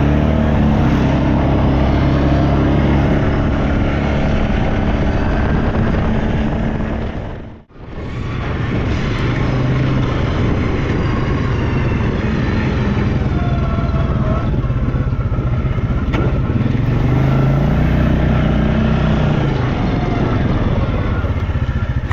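ATV engine running under load as the quad is ridden along a rough forest track, its pitch shifting a little with the throttle. About eight seconds in the sound drops out for a moment, then the engine returns.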